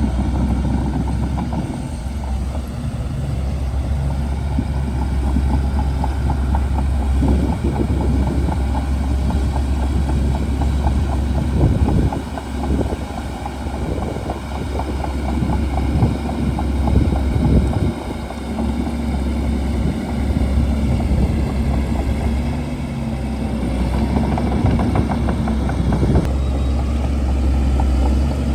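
Shantui DH17C2 bulldozer's diesel engine running steadily, with stretches of crackling and clattering through the middle and again near the end.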